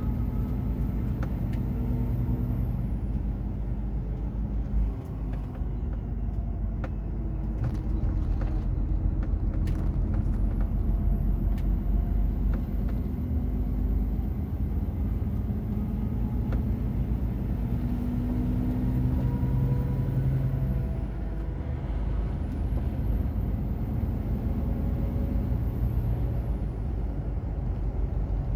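Semi-truck's diesel engine running under way with steady road rumble, its engine note rising and falling several times as the truck drives.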